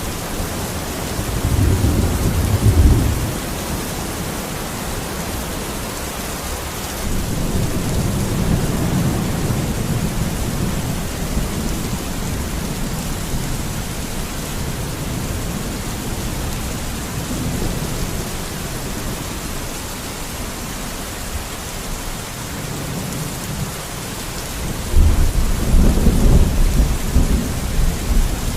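Steady heavy rain hissing, with low rolling thunder: one rumble a couple of seconds in, a longer one about a quarter of the way through, and a louder peal near the end.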